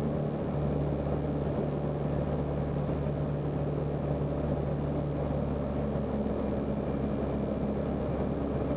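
Zenith CH 750 Cruzer light aircraft's engine and propeller running steadily in flight, heard from the cockpit as an even, low drone with a couple of held tones.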